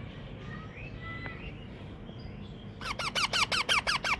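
Baby Indian ringneck parakeet giving faint chirps, then a quick run of loud, squeaky begging calls, about seven falling notes a second, starting a little under three seconds in, as it is fed by hand.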